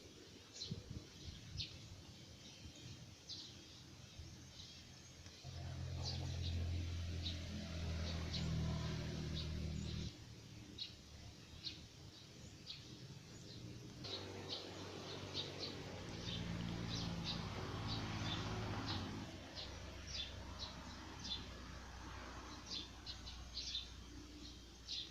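Birds chirping in short, repeated high calls, against a background of outdoor noise. A low engine drone swells in twice, each time for about five seconds, about a fifth of the way in and again past the middle.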